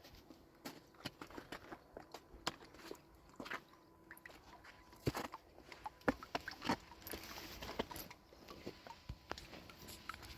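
Irregular light clicks, knocks and crunches from close handling, busiest around the middle.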